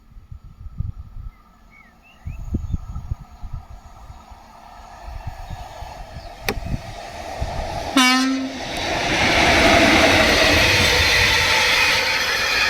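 ET23 (Škoda 181) electric locomotive approaching with a train of tank wagons, growing louder, and giving one short horn blast about eight seconds in. The locomotive and tank wagons then pass close with a loud, steady rumble of wheels on rail. At first, wind thumps on the microphone.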